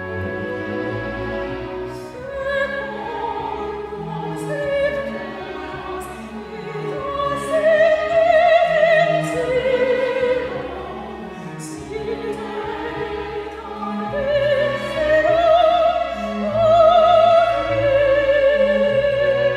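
A classical solo voice singing long, wide-vibrato phrases of a sung Mass over a chamber orchestra accompaniment.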